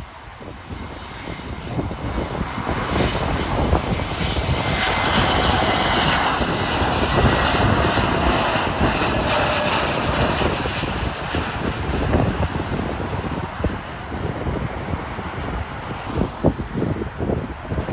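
Jet airliner passing close by: its engine roar swells to a peak several seconds in, with a steady high whine on top, then slowly eases off.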